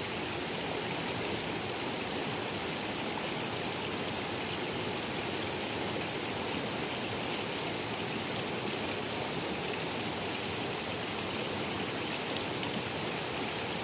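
Rushing water, a steady, even rush with no breaks.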